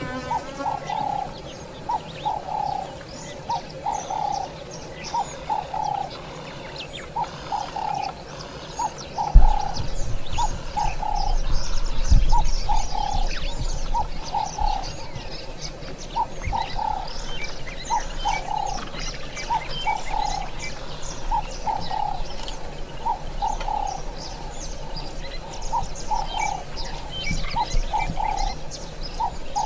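Birds calling: a short, low call repeated about once a second, with scattered high chirps over it. About nine seconds in there is a loud thump, then a low rumble for several seconds.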